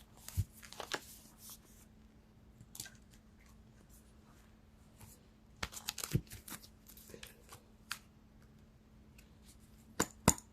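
Oracle cards being handled and shuffled: scattered soft snaps and rustles of card stock, in clusters about a second in, around six seconds in, and again near the end.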